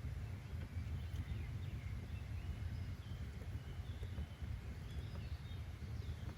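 Outdoor nature ambience: a steady low rumble with faint, scattered bird chirps.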